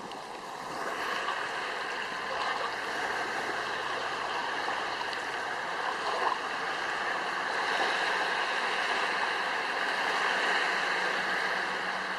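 Steady rushing of water, with no break through the whole stretch.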